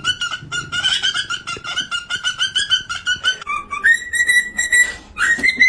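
Parrot giving a fast run of short chirping clucks, several a second, shifting about four seconds in to a higher, steadier whistled call, with a rising whistle near the end.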